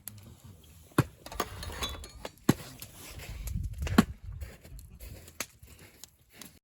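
About five separate sharp knocks and clinks, with a low rumble in the middle, as of camping gear or wood being handled and set down.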